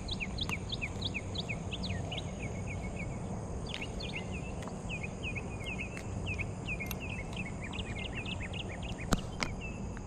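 Outdoor pondside ambience: a bird sings a fast, continuous series of short down-slurred chirps over a steady low rumble, with a faint high insect drone. Two sharp clicks come about nine seconds in.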